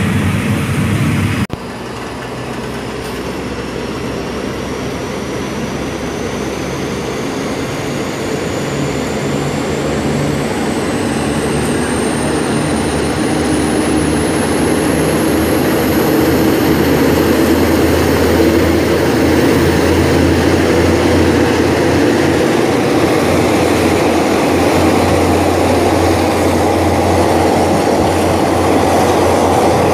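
Running noise of a passenger train heard from on board: a steady low rumble of wheels and locomotive that drops suddenly about a second and a half in, then grows louder as the train picks up speed. A faint high whine rises slowly in pitch along with it.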